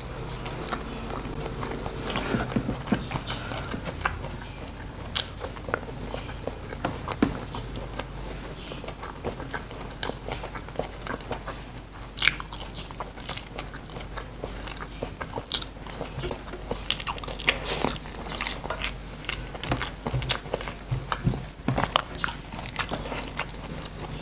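Close-up chewing and crunching of food, with frequent short, sharp crunchy bites and mouth sounds throughout.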